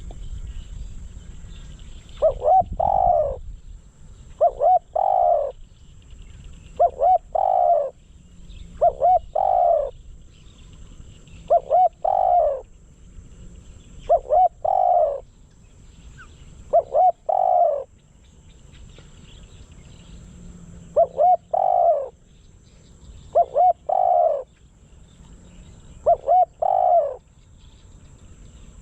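Spotted dove, a decoy bird, cooing: a phrase of two short notes and a longer falling coo, repeated about every two and a half seconds, ten times, with a longer pause a little past halfway.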